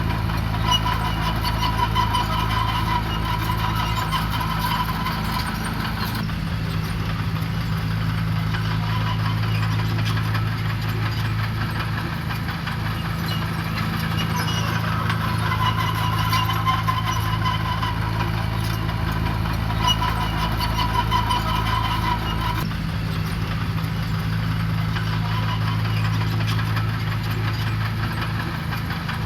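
Diesel engine of heavy earthmoving equipment running steadily, its pitch and load shifting slightly a couple of times.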